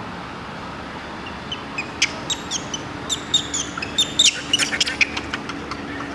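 Quick, high-pitched chirping calls that start about a second and a half in and grow thicker and busier toward the end, each a short note sliding down in pitch, over a steady hum of traffic.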